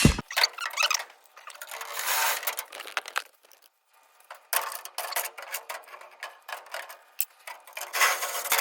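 Aprilaire humidifier housing and parts being handled and turned around: bursts of rubbing and scraping with small clicks, with a short pause a little past the middle.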